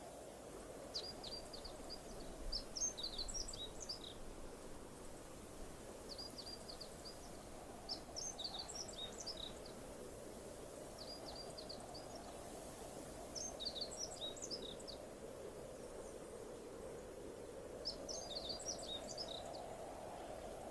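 A songbird singing the same short phrase four times, about every five seconds: a few quick high notes run into a fast jumbled flourish. Underneath is a steady faint rush of background noise.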